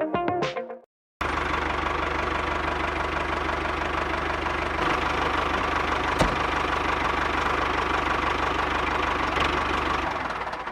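Diesel tractor engine idling steadily with a fast, even knock, starting abruptly about a second in and fading out near the end, with a single sharp click partway through. Music fades out before it begins.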